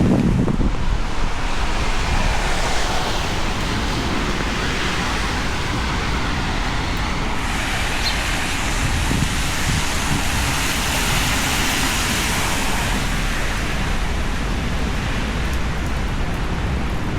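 Heavy rain with traffic on a wet city street: a steady hiss of rain and tyres on wet asphalt that swells and fades as vehicles pass, over a low rumble.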